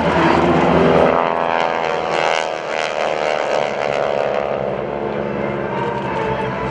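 Radial engines and propellers of a formation of North American SNJ-2 trainers (600 hp Pratt & Whitney radials) droning past, the pitch falling as they go by.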